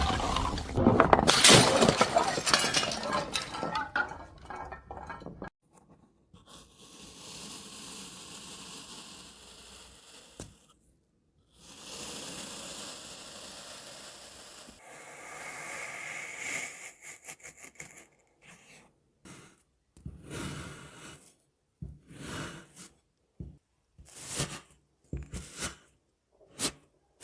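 Glass being broken and crushed, a dense loud crackle and shatter of glass pieces for the first few seconds. Then come two stretches of steady hissing, and after them a series of short separate crunches and cracks.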